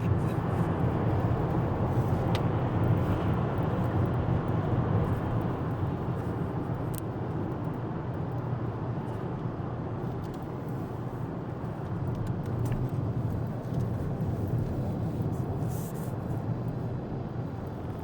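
Steady engine and tyre noise inside the cabin of a moving car: a continuous low hum and rumble that eases off slightly partway through.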